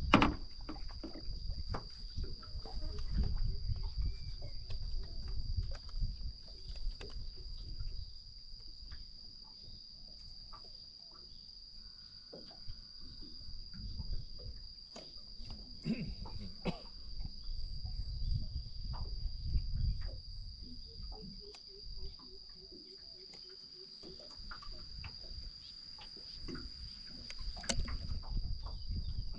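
Insects trill in a steady, unbroken high-pitched chorus, with low rumbling and scattered knocks and clicks coming and going underneath.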